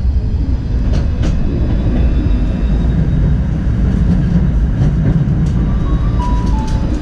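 Tram running on its rails: a steady low rumble of wheels and running gear, with two sharp clicks about a second in.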